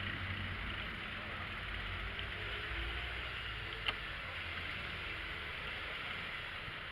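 Steady street and traffic noise heard on the move, a hiss over a low rumble, with one sharp click about four seconds in.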